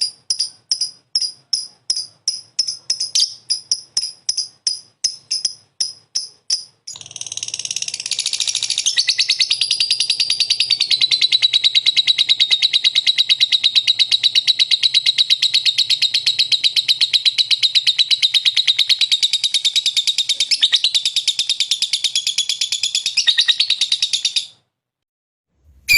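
Lovebird calling: separate sharp high chirps at about three a second, then about seven seconds in it breaks into a long, fast, unbroken trill that runs for about seventeen seconds and stops shortly before the end.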